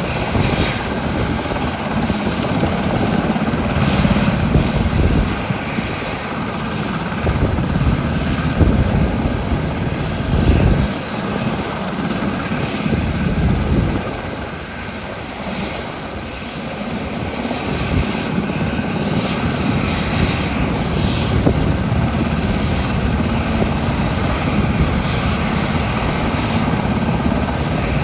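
SH-60K helicopter's rotor and twin turboshaft engines running, a continuous heavy drone that swells and eases and drops back for a few seconds in the middle.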